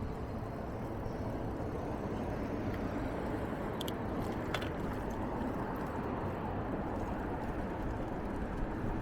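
Steady rolling rumble of a bicycle being ridden, tyre noise mixed with wind on the microphone, with two light clicks about four seconds in.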